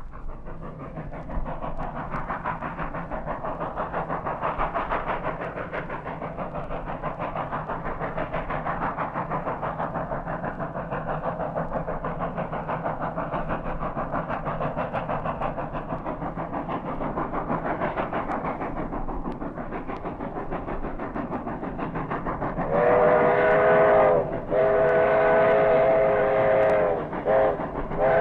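Steam locomotive running with a fast, even beat of exhaust and wheel noise. About 23 seconds in, its whistle sounds a chord of several notes in a series of blasts with short breaks between them, the last blast running on.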